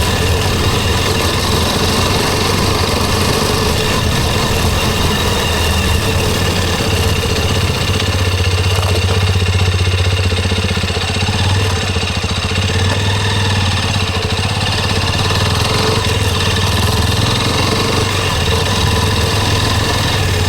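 Hero XPulse 210's 210cc single-cylinder engine idling steadily.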